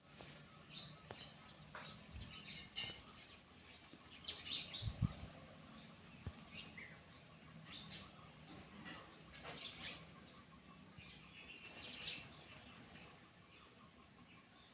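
Small birds chirping in short, scattered calls over faint outdoor hiss, with two low thumps about two and five seconds in.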